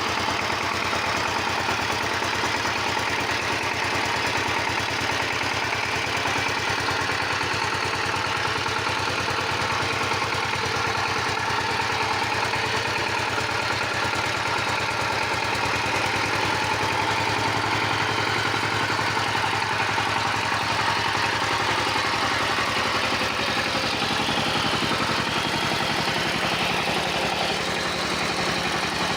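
Power tiller engine running steadily at idle, with a fast, even beat.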